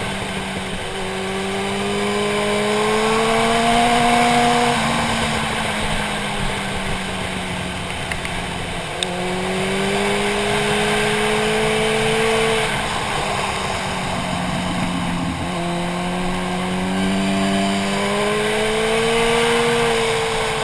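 Motorcycle engine pulling along a road, its pitch climbing under throttle and stepping down at gear changes or roll-offs about three times, with wind rush on the helmet-mounted camera's microphone.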